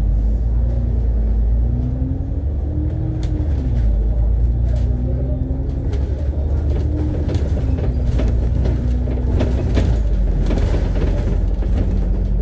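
Alexander Dennis Enviro500 MMC double-decker bus's diesel engine, heard from inside the cabin as it pulls away. It rises in pitch, drops at a gear change about three seconds in, rises again, holds steady, then drops at another change near ten seconds. Light rattles and knocks from the cabin come through in the second half.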